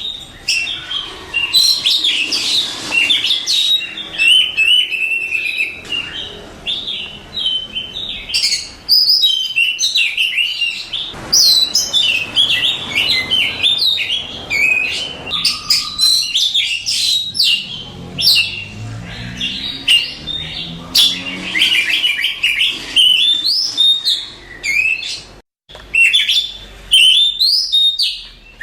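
Oriental magpie-robin singing loudly and almost without pause: a fast, dense string of varied whistles, trills and chattering notes, broken by one short gap about three-quarters of the way through.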